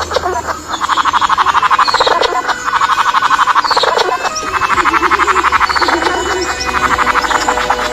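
An animal's rapid pulsed croaking call, about a dozen pulses a second, given in two long trains with a short break between them, over a steady low hum.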